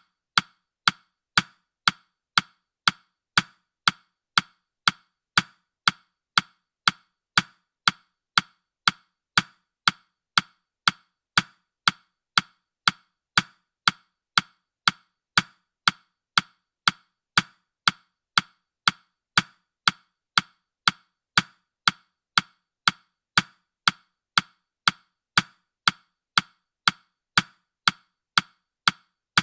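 Ticking sound effect of a countdown timer: short, dry clicks at an even pace of about two a second.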